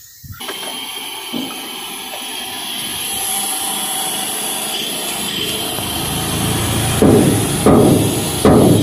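A tipper truck's six-cylinder engine revved up to drive the hydraulic hoist while the tipper body is raised. The sound builds gradually, with louder surges near the end.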